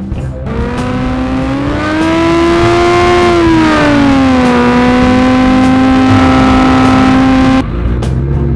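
Suzuki GSX-R1000's inline-four engine held at high revs during a burnout: its pitch climbs and sinks back once, holds steady, then cuts off suddenly about seven and a half seconds in.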